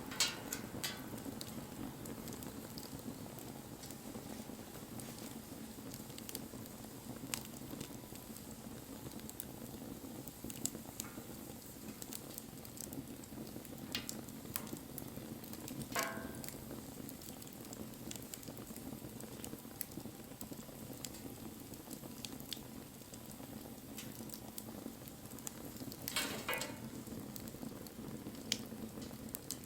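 Wood bonfire burning: a steady low rush of flames with scattered crackles and sharp pops. The loudest pops come just after the start, about halfway through and near the end.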